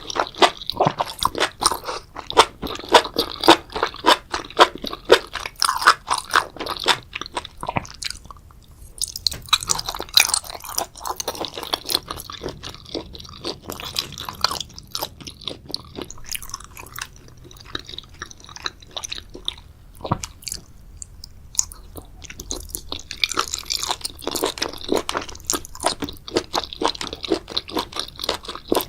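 Close-miked ASMR eating of spicy seafood boil: rapid crisp crunches and wet chewing. The chewing is dense for the first several seconds, sparser and quieter through the middle, and dense again near the end.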